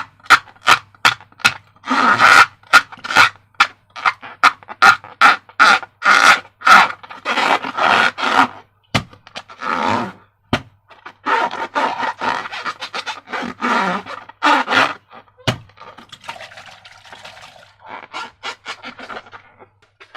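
Slime squelching and sputtering with trapped air as it is worked and squeezed, in rapid short wet bursts, several a second, that thin out and grow quieter near the end.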